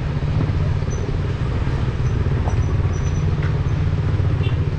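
A KTM 200 single-cylinder motorcycle engine running steadily, a fast, even throb of firing pulses.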